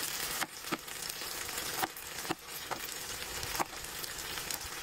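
Frozen macaroni and cheese sizzling as it fries in oil in a Teflon non-stick skillet over high heat. A metal spoon scrapes and knocks against the pan about six times.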